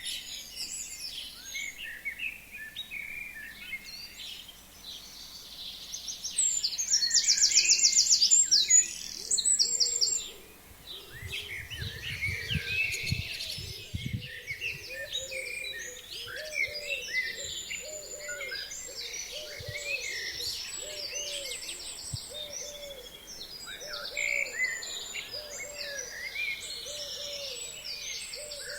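A chorus of forest songbirds singing, with many overlapping chirps and high trills, one loud fast trill about a quarter of the way in. In the second half a lower call repeats about once a second, and there is a brief low rumble near the middle.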